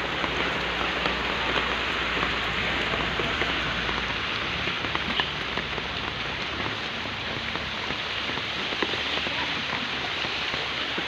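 Steady rain falling, a dense even hiss full of small ticks, with a low hum underneath that stops about four seconds in.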